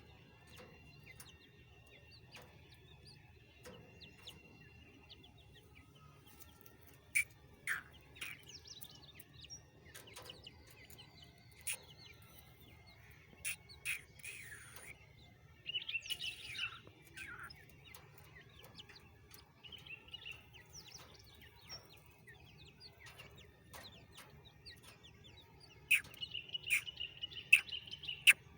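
Grey francolin (desi teetar) chicks chirping: scattered short peeps and a few falling calls, with sharp clicks between them. A denser, louder run of rapid chirps comes near the end.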